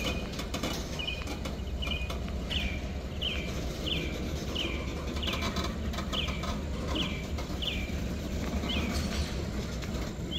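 Freight train rolling slowly past with a steady low rumble, with a high, short falling squeak repeating evenly about once every 0.7 seconds.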